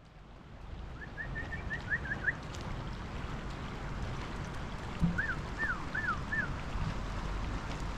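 A small bird chirping in two short bursts of quick arched notes, the first about a second in and the second, of four notes, past the middle, over a steady outdoor background noise, with a single thump about five seconds in.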